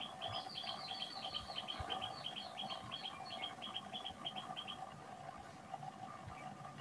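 A bird chirping in a quick run of short, repeated high notes, about four or five a second, that stops about five seconds in, over a faint steady hum.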